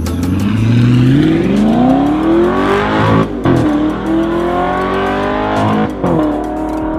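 Audi R8 V8 with an Armytrix valvetronic exhaust accelerating hard, the engine note climbing through the revs with two quick upshifts, about three and six seconds in.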